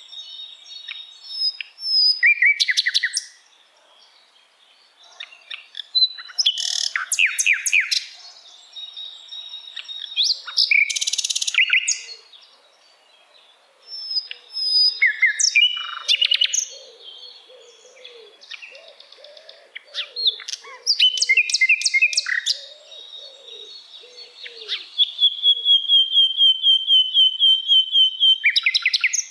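Sikatan londo flycatcher singing: varied phrases of sharp whistles and fast rattling notes, separated by short pauses. Near the end it holds a long even trill at one pitch, about four to five notes a second.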